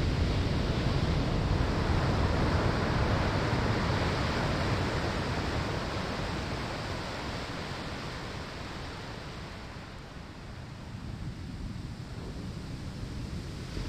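Ocean surf washing onto a sandy shore: a loud rush of water that slowly dies away over about ten seconds, then starts to build again near the end as the next wave comes in.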